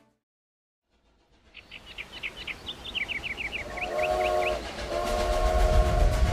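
Train sound effect: a quick run of short high chuffs builds up, then a multi-note train whistle sounds in two long blasts over a swelling low rumble.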